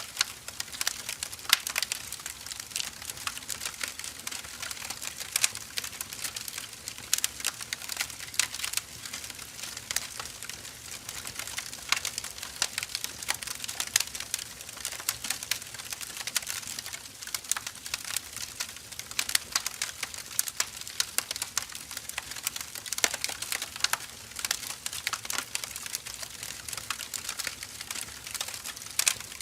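Firewood burning with dense, irregular crackles and pops throughout.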